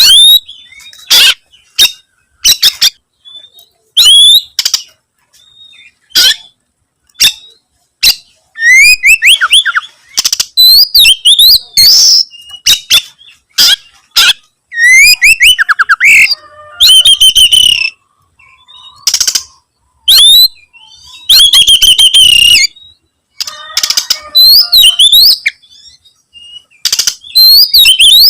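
Oriental magpie-robin (kacer) singing in full voice, a varied song of sharp, abrupt notes and sweeping, warbled whistles in loud phrases broken by short pauses. This is the vigorous 'gacor' singing of a male bird challenging a rival.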